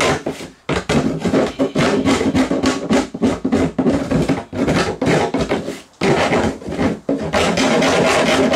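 Hand rasp filing the edge of a hole cut in a plastic camping cooler's lid, in quick repeated scraping strokes of about two to three a second, with a few short pauses.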